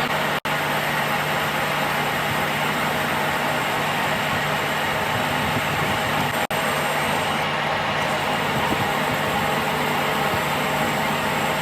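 Steady machine noise from metalworking equipment running continuously, with a low hum under an even hiss and two very brief dropouts.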